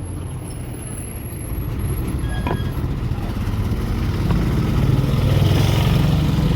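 Road traffic: a heavy vehicle's engine rumble that builds steadily louder through the second half as it passes close by.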